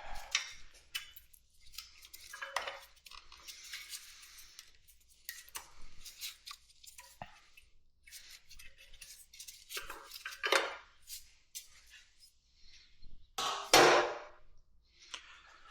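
Metal hand tools and motorcycle parts clinking, scraping and rattling in irregular knocks as the bike is taken apart, with the loudest clatter near the end.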